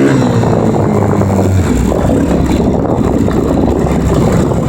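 Dirt bike engine easing off from a rev, its pitch falling. After about a second and a half it gives way to a loud, rough, noisy rumble of the bike under way.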